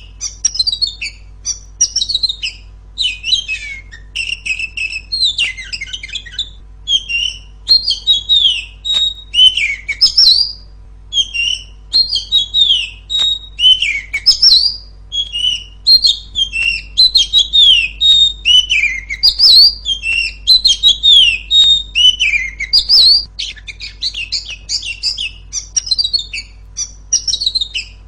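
Female oriental magpie-robin (kacer) singing a loud, unbroken run of quick whistled phrases, many of them sliding down in pitch.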